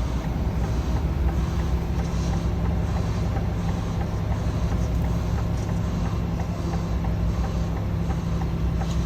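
Heavy goods vehicle's diesel engine running steadily, a low drone heard from inside the truck's cab.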